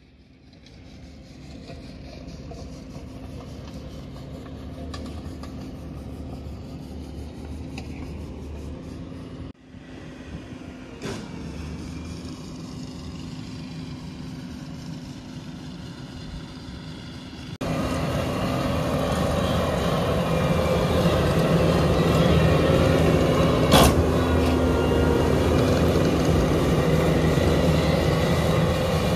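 A skid-steer loader with a CONETEKS 2.13SF forestry attachment working, heard as a steady engine hum. The sound cuts off abruptly about a third of the way in and resumes. It changes suddenly again a little past halfway, becoming much louder, with a single sharp knock a few seconds later.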